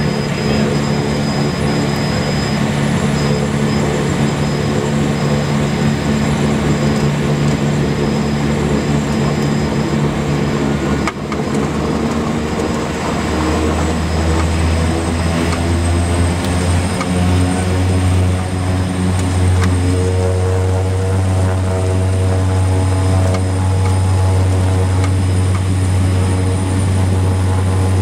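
Cessna 208 Grand Caravan's single PT6A turboprop and propeller, heard from inside the cabin, running steadily. About halfway through, the propeller drone deepens and grows and a high turbine whine rises slowly as power comes up for the takeoff run.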